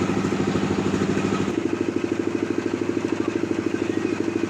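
Sawmill's engine running steadily with a fast, even pulsing beat; about one and a half seconds in, its tone shifts as the engine speed or load changes.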